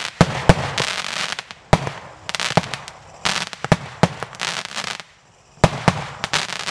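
Crossing Stars 7200 multi-shot firework going off shot after shot. There are about nine sharp bangs, some coming in quick pairs, and each burst is followed by a short crackling tail. A brief lull comes about five seconds in, before a last quick run of shots.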